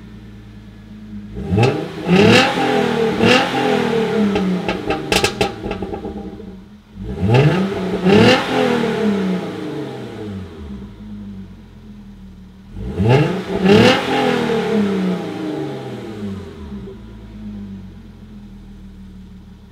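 2014 Hyundai Genesis Coupe 3.8 R-Spec's V6 exhaust through a muffler, idling and blipped three times, each rev climbing and falling back to idle. A few sharp pops come as the first rev falls off.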